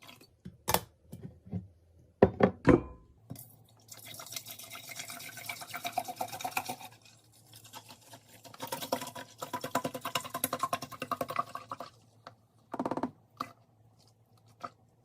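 Containers knocking as they are set down, then liquid poured into a container in two stretches of about three seconds each, with one more knock near the end.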